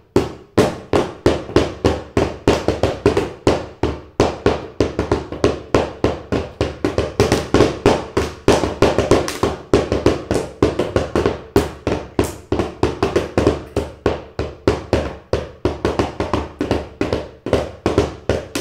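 A child drumming, banging loudly on a hollow object in a fast, uneven run of about four strikes a second, without a break.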